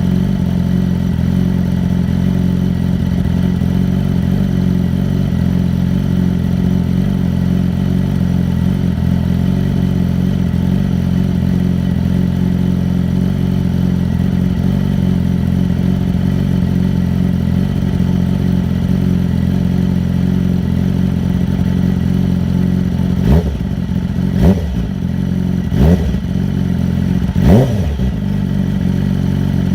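Motorcycle engine idling steadily after a cold start, then blipped four times near the end, each rev rising quickly and dropping back to idle.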